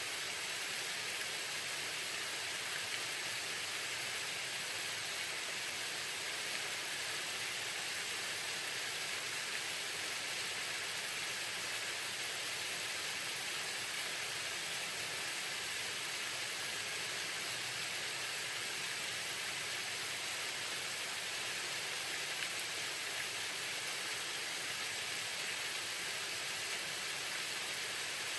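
Waterfall: water falling and splashing in a steady, even hissing rush with little low rumble.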